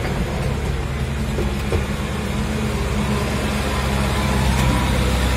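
Farmtrac 675DT tractor's diesel engine running steadily under load while pulling a plough through wet soil, growing slightly louder toward the end.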